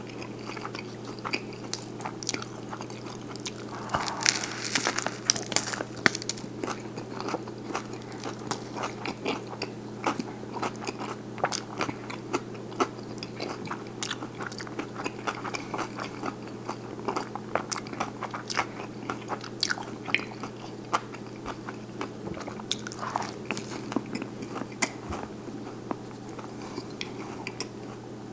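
Close-up chewing and biting of a buffalo chicken sandwich with lettuce, cucumber and peppers: many crisp crunches and wet mouth clicks, busiest about four to six seconds in. A steady low hum runs underneath.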